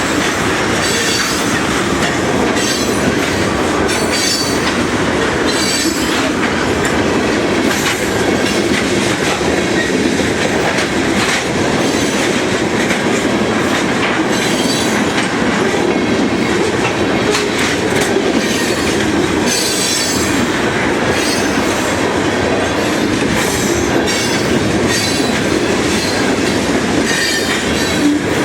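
Freight train cars rolling past close by: a steady rumble of wheels on rail with repeated clicks and a recurring high wheel squeal.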